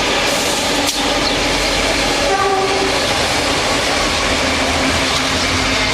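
Sunlander diesel-hauled passenger train running through the station, a loud steady rail noise with a sharp click about a second in and a brief pitched tone a little over two seconds in.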